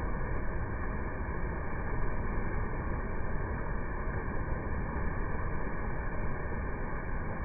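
Waterfall: a steady rush of falling water that holds even throughout.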